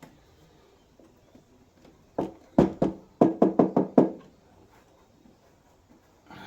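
A quick run of about eight knocks on a Land Rover Defender body panel, from about two to four seconds in. The panel is being rapped to hear how far the freshly applied sound-deadening mat has damped its ring.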